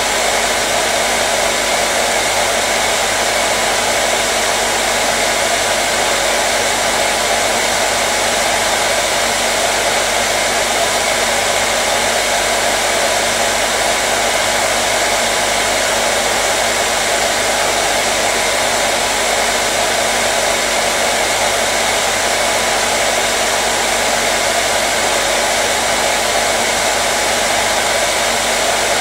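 Hair dryer running steadily, a constant whooshing blow of air and fan motor hum.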